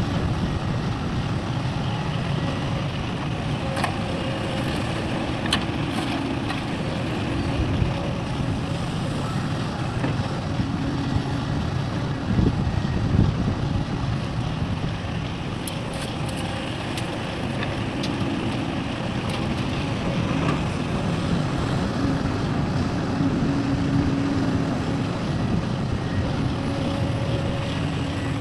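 Heavy diesel machinery of the excavator and dump-truck kind running steadily, a continuous low rumble with occasional short knocks.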